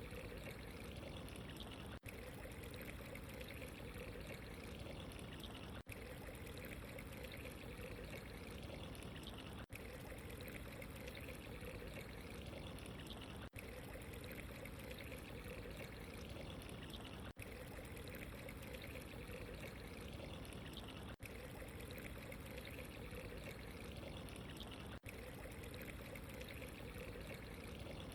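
Steady trickling, pouring water with no pauses in the flow, interrupted only by a very brief dip in level about every four seconds.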